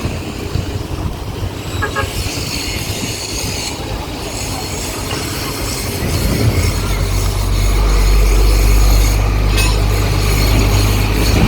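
Street noise with a heavy vehicle's engine drawing near, its low hum getting steadily louder from about halfway in.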